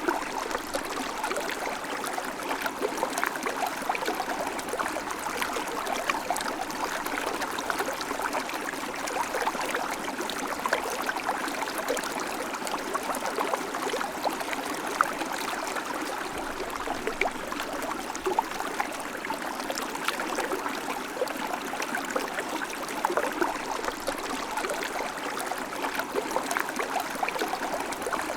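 River water flowing steadily over rocks, a continuous rushing and babbling with many small splashes and trickles.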